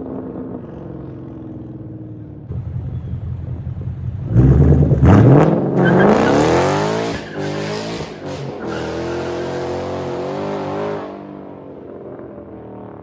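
V8 exhaust of a 2013 Mustang GT with its resonators cut out, running low at first. About four seconds in the engine is opened up hard and the pitch climbs steeply, then it holds a steady higher drone before easing off near the end.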